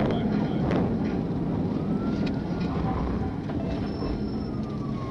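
Police patrol car driving at high speed in a pursuit: heavy road and engine rumble, with a siren wailing slowly up and down over it.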